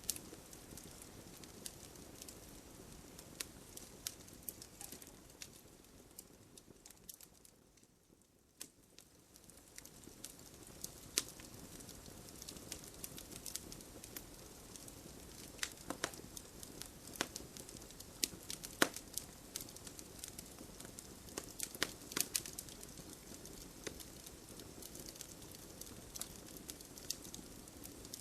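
Campfire crackling, with scattered sharp pops and snaps over a soft steady hiss. The sound dips briefly about eight seconds in, then comes back.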